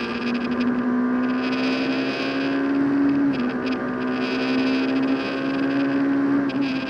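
Rally car engine heard from inside the cabin, pulling hard under load. Its pitch climbs slowly and drops on a gear change about three seconds in and again near the end, with a hiss that comes and goes over it.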